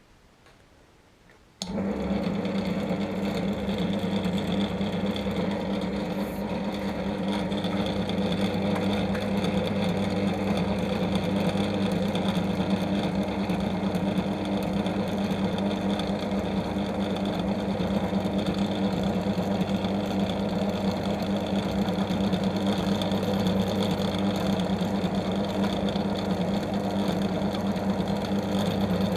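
Electric machine tool switched on about one and a half seconds in, its motor then running steadily with an even hum.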